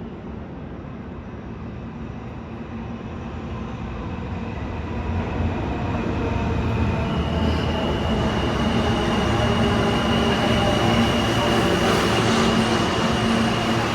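New York City subway train coming into the station, growing louder from about four seconds in, with a steady high-pitched whine joining about halfway through.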